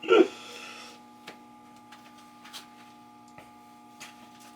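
Steady electrical mains hum made of several fixed tones, with a few faint clicks scattered through it. A short vocal sound opens it.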